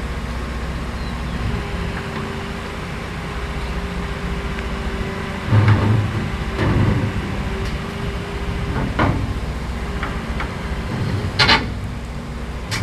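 Heavy diesel machinery engines running steadily, with several heavy low thumps about halfway through and a sharp knock or clank near the end.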